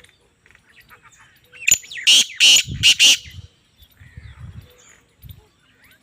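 Black francolin calling: one loud, harsh phrase of about four grating notes, lasting a little over a second, about two seconds in.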